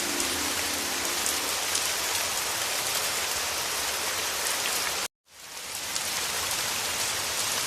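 Heavy rain, a dense, even hiss. About five seconds in it cuts out completely for a moment, then fades back up over about a second.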